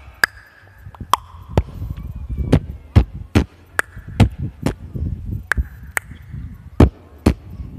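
Vocal beatboxing: a run of sharp mouth-made pops and clicks with low thumps between them, about two a second at an uneven rhythm.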